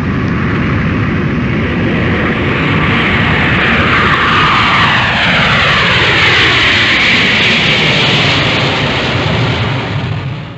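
Loud, steady engine noise of a passing vehicle, with a tone that sweeps downward through the middle as it goes by; it cuts off suddenly at the end.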